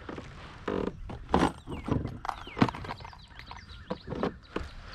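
Scattered knocks, clunks and rustling of fishing gear being shifted about in a kayak, with a few sharper knocks through the middle.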